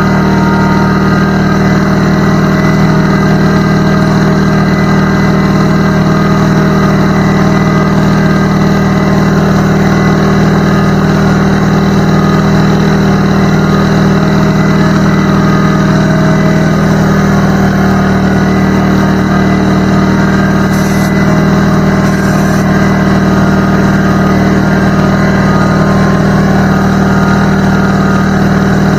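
McGraw 21-gallon air compressor running steadily, its motor and pump holding a constant hum and drone as it pumps up the tank.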